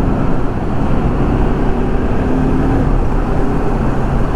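Motorcycle engine running steadily while riding, under heavy wind and road rumble on the microphone.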